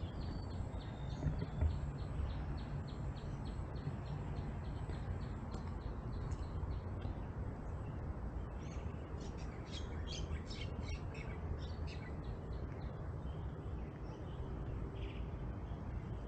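Small birds chirping: a steady run of short, high chirps, then a quicker burst of sharper chirps around the middle, over a low, steady background rumble.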